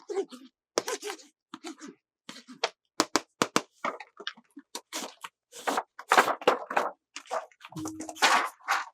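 Plastic toy packaging and toy pieces being handled during an unboxing: quick clicks, crackles and rustles in irregular runs. A brief low buzz sounds about eight seconds in.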